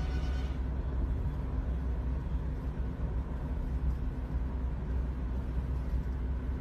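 Steady low rumble of a car driving, its road and engine noise. Background music cuts off about half a second in.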